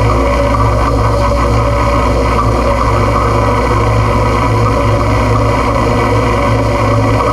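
Noise music: a loud, dense, unchanging wall of droning noise with a strong low hum underneath.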